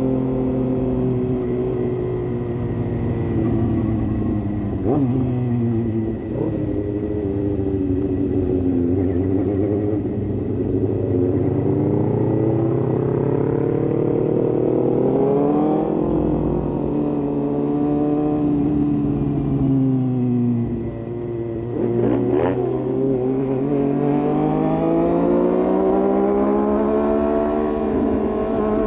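Suzuki GSX-S750's inline-four engine running through an aftermarket sport exhaust while riding. The revs rise and fall with throttle and gear changes: they sink for a few seconds, build again, dip briefly with a short drop in loudness about two-thirds of the way in, then climb steadily near the end.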